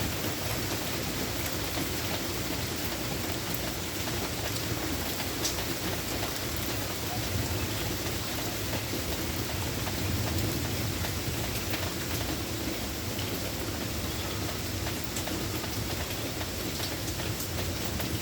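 Steady rain falling, an even hiss at a constant level, with a few sharp ticks of single drops striking nearby.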